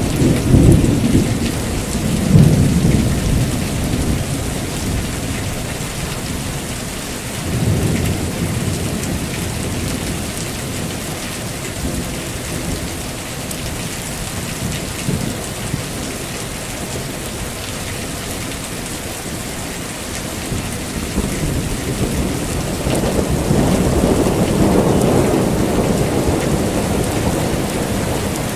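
Heavy rain falling steadily, with rolls of thunder: rumbles at the start, about two seconds in and about eight seconds in, and a longer rolling rumble near the end.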